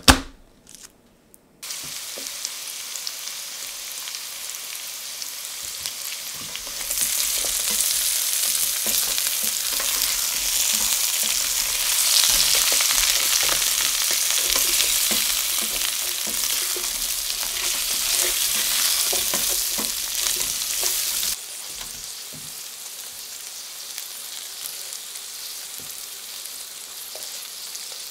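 A single sharp crack as a knife blade is pressed down to crush a garlic clove, then hot oil sizzling as halved new potatoes and sliced carrots fry and are stirred in a stainless steel sauté pan. The sizzling grows louder about seven seconds in and drops back sharply about seven seconds before the end.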